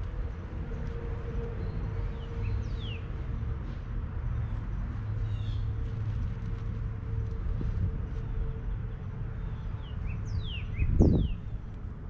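Bird song: quick downslurred whistles, one set about three seconds in and a cluster of several near the end, over a steady low hum. A brief low rumble about eleven seconds in is the loudest sound.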